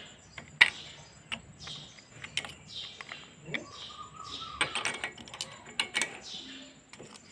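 Irregular clicks and metal taps of a ratchet wrench on a spark-plug socket as a spark plug is unscrewed from the engine.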